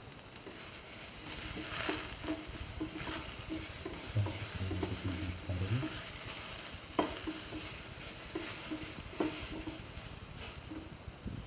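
Tomato pieces, shallots, garlic and ginger frying in oil in a pan with a steady sizzle, stirred with a spatula that knocks against the pan now and then. A low hum comes in for about two seconds partway through.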